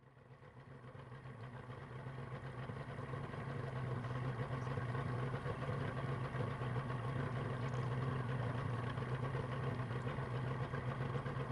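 An engine running steadily at one unchanging pitch, fading in from silence over the first few seconds.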